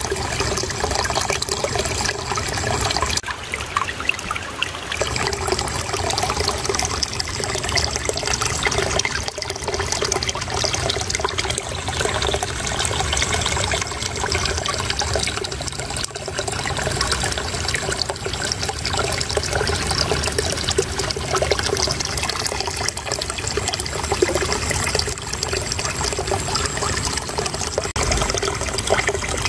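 Shallow water flowing and trickling steadily in a small stream, with a continuous babbling splash.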